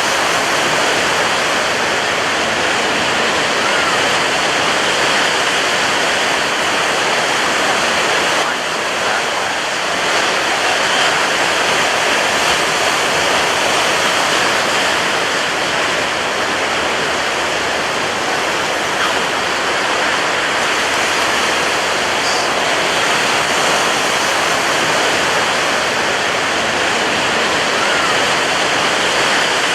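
Ocean surf breaking on a beach: a steady, unbroken rush of churning water with no distinct single wave crashes standing out.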